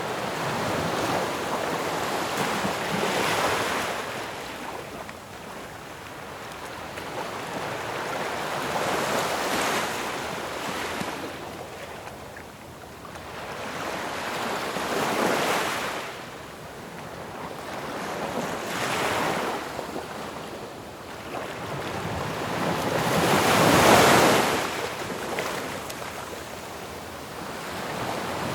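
Ocean waves breaking on the shore, a steady wash of surf that swells and falls back every few seconds. The biggest wave crashes about three-quarters of the way through.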